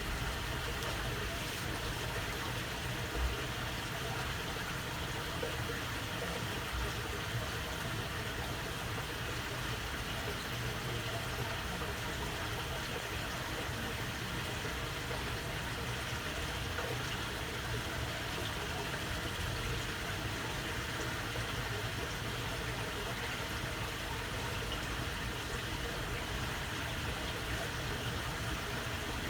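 Water running steadily through a narrow waterway, a continuous babble with a low rumble underneath.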